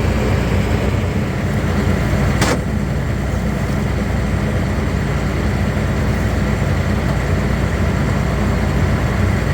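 Combine harvester running steadily with a low, even engine drone, and a brief sharp sound about two and a half seconds in.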